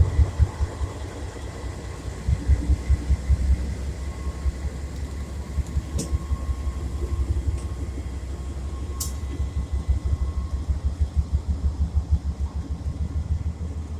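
CSX freight train rolling past, a steady low rumble with a fast, even rhythmic beat from the wheels, and a couple of sharp clicks partway through.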